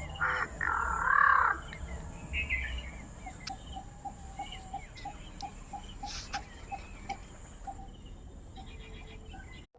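A crow calling: one loud, drawn-out call near the start.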